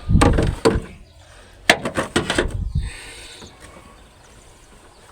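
Clicks and knocks of parts being handled in a car's engine bay, with a quick cluster of rattling clicks about halfway through, then only faint background.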